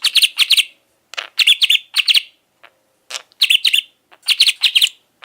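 Male budgerigar chattering in quick, high-pitched warbled chirps, in four bursts with short pauses between them.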